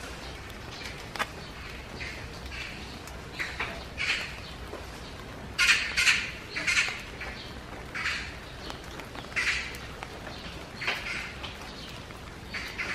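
A bird giving short, rough calls at irregular intervals, with a run of several loud calls about six seconds in, over a steady low background hiss.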